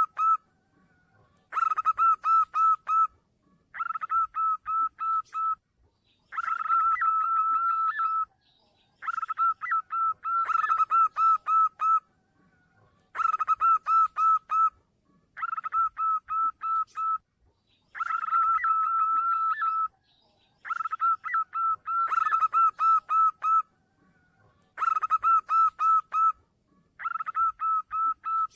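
Zebra dove (perkutut) song used as a lure call: phrases of rapid staccato cooing notes, each about one and a half to two seconds long, repeated over and over with short pauses between them.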